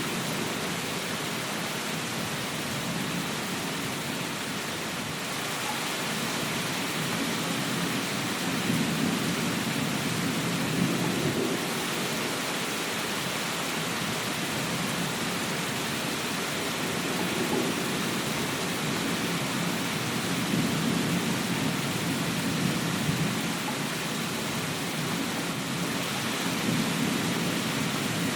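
Steady rain, an even dense hiss, with low rumbles that swell and fade every few seconds.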